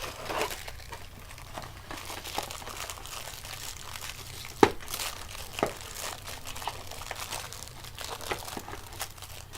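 Crinkling of a Pop-Tarts foil wrapper being handled and opened, with many small crackles and a couple of sharper snaps near the middle.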